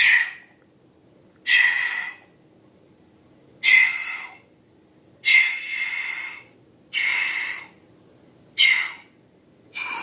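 A breathy hissing sound repeated six times, each burst under a second long and about one and a half seconds apart.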